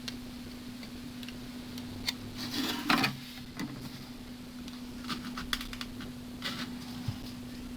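Light clicks, taps and rustles of tools and plastic parts being handled on a workbench over a steady low hum, with a louder rustling scrape about three seconds in.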